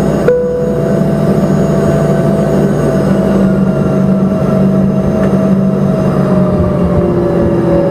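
Cabin noise of an Embraer ERJ-145 with its rear-mounted Rolls-Royce AE 3007 turbofans running: a loud, steady rush with a hum whose pitch drifts slowly lower. A short knock comes about a third of a second in.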